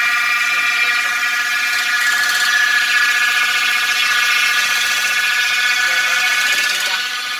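Hyundai Accent's automatic transmission humming steadily while the car runs, a high-pitched whine of several held tones. This hum is the fault being diagnosed, which the mechanic puts down to a problem inside the transmission.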